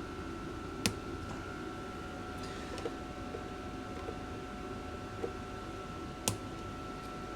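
Small sharp clicks and light taps of tools and parts being handled at a workbench while a carburetor is taken apart: two distinct clicks, about a second in and near the end, with a few fainter ticks between, over a steady faint hum.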